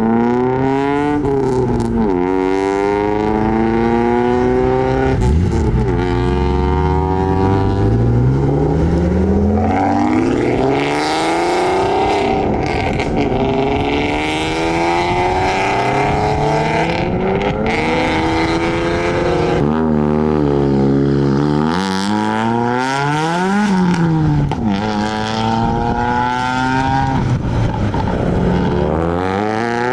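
Modified car engines accelerating away one after another, the pitch climbing and then dropping back again and again, with a quick sharp rev about three-quarters of the way through.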